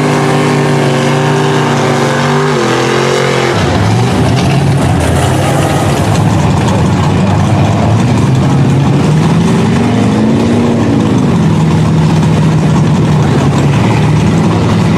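Mud truck engine holding a steady note, then opened up hard about four seconds in and running loud and rough. Its revs rise and fall once near the middle before it settles into a steady drone.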